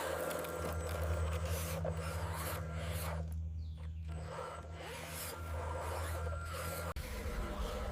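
Rubbing and scraping over a steady low hum.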